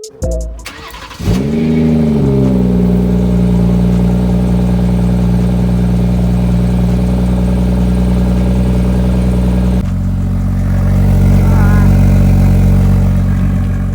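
BMW 440i Gran Coupe's turbocharged B58 inline-six, fitted with a Dinan freeflow exhaust, starting up: the revs flare up and ease back, then settle into a steady idle.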